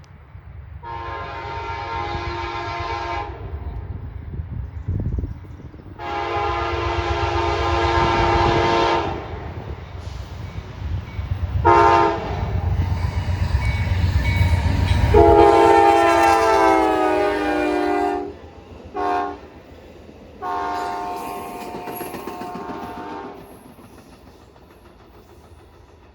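Amtrak passenger train sounding its multi-note air horn in long-long-short-long crossing blasts as it approaches and passes, the horn dropping in pitch as it goes by. The rumble of the train grows under the horn and fades, followed by one more short and one long blast farther off.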